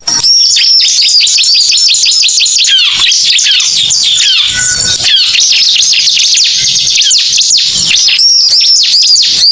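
Bar-winged prinia (ciblek) lure call: a loud, fast, unbroken run of high, sweeping chirps.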